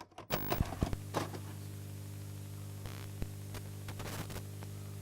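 A steady low hum with scattered clicks and knocks over it, busiest in the first second or so.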